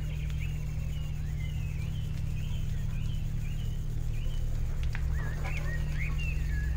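Birds chirping in short, quick, curling notes over a loud, low, steady drone, with a single sharp click about five seconds in.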